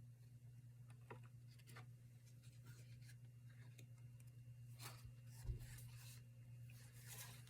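Faint rustling and rubbing of paper being handled, as a paper band is wrapped around a handmade journal, with a soft bump a little past halfway. A steady low hum sits underneath.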